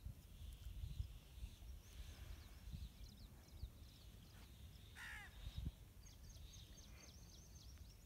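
Small birds chirping, many short high calls throughout, with one louder, lower call of several quick falling notes about five seconds in. A faint low rumble runs underneath.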